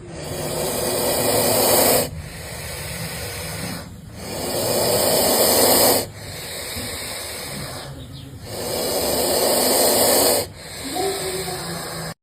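A snake hissing in three long loud hisses, each swelling for about two seconds and cutting off sharply, with quieter hissing between them.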